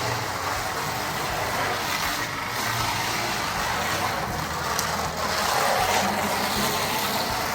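Carrera Digital 132 slot car running laps on its track, a steady electric-motor whir with the rattle of the car along the slot, louder about five to six seconds in. The car is on its old hardened original tires, which give it almost no traction in the corners.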